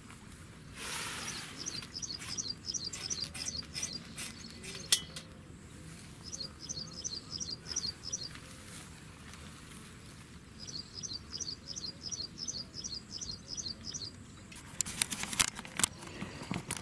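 A small songbird singing three phrases of quick repeated high chirps, about four a second. Scattered clicks and knocks sound throughout, with a sharp one about five seconds in and a burst of sharper clicks near the end.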